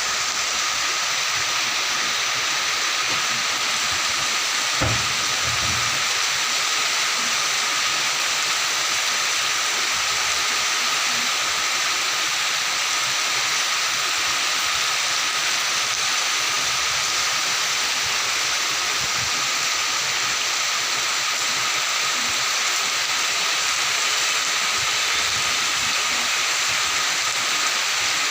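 Steady rain falling in a forest, an even hiss that does not change, with one brief low knock about five seconds in.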